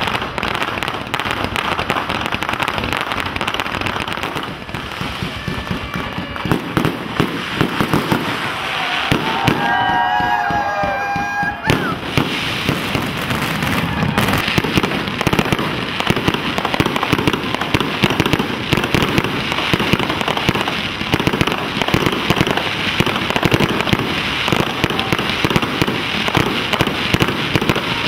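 Fireworks display: rapid, continuous crackling and popping of bursting shells and crackle stars, with no let-up.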